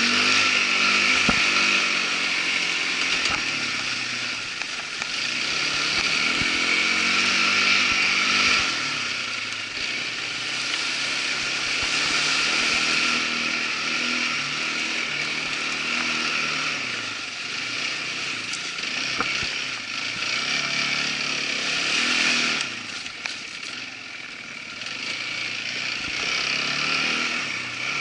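Irbis ATV 200 quad bike's engine running while riding, its pitch rising and falling with the throttle over a steady hiss. It drops in loudness briefly around the middle and again about three quarters of the way through.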